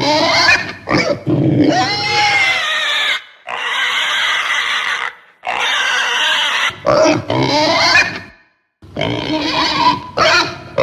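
Farm animal calls: several long, high-pitched cries in a row, then shorter, lower calls, broken by a brief silence about eight seconds in.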